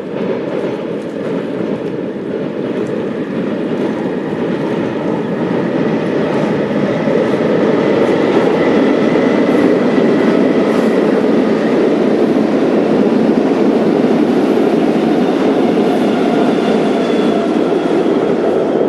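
A train passing on the rails: a steady rumble of wheels on track with faint high squeals above it, growing louder over the first half and then holding.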